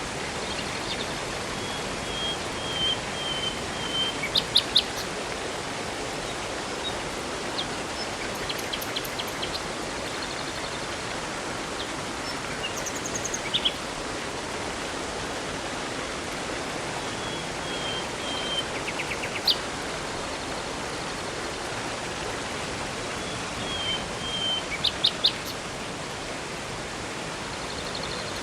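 Steady rushing river water, with small birds chirping in short phrases of quick high notes that come back about five times.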